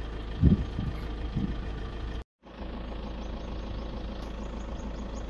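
Safari vehicle's engine idling steadily, with a brief cut to silence a little over two seconds in.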